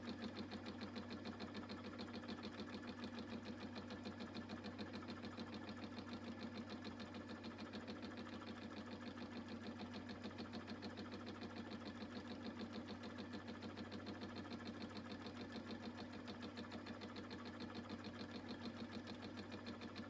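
Milling machine spindle running a boring head through a light interrupted cut on a steam-engine crankshaft counterweight, the tool hitting the work in a rapid, even pulse over a steady motor hum.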